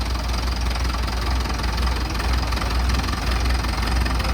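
Diesel tractor engine running with a steady, pulsing low throb.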